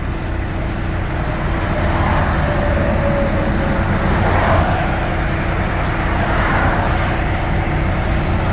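Steady low rumble of an idling diesel truck engine, with road traffic passing that swells and fades twice.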